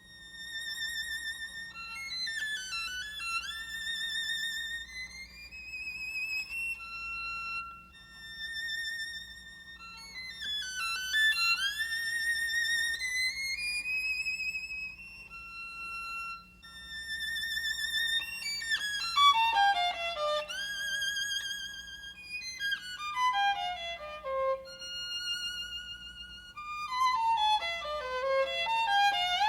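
Background music: a high solo violin melody with vibrato, sliding up into long notes and playing several quick descending runs.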